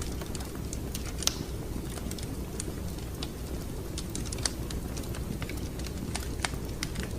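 Wood fire in a fireplace crackling: irregular sharp pops and snaps over a steady low rumble of the flames, the loudest pop a little over a second in.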